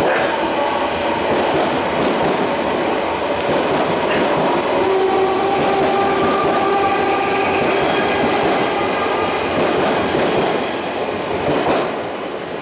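Odakyu 4000 series electric commuter train running past along the platform: wheels clattering over the rail joints under a steady whine from its traction motors. The sound drops away near the end as the last car clears.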